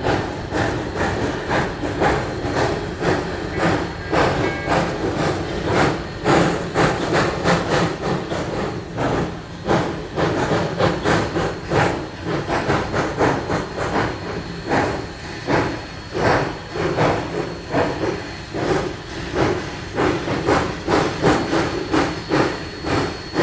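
Narrow-gauge steam locomotive working under steam, its exhaust chuffing in an even, rapid beat over a steady hiss of steam.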